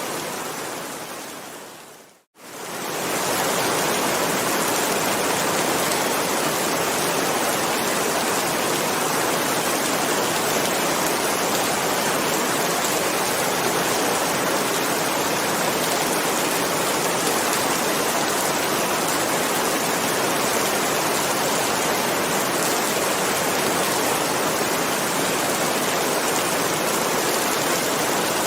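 Steady heavy rain, a dense even hiss. About two seconds in it fades away to near silence and swells straight back up.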